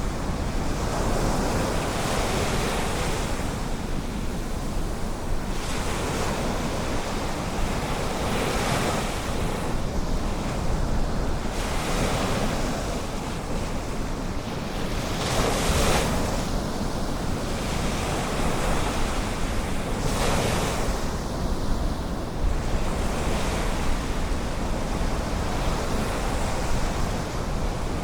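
Ocean waves breaking and washing up on a beach, swelling every few seconds, over a steady low rumble of wind on the microphone.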